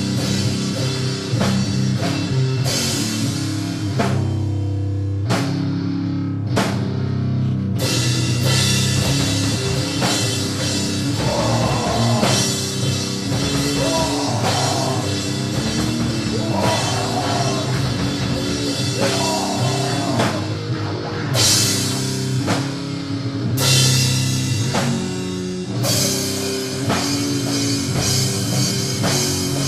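Heavy doom-metal music, loud and dense: distorted guitar over a drum kit with cymbal hits.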